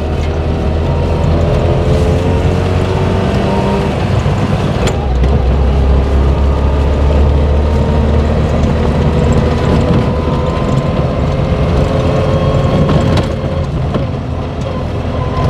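Trabant 601's two-cylinder two-stroke engine running as the car is driven, heard from inside the cabin, its note climbing slowly as it pulls.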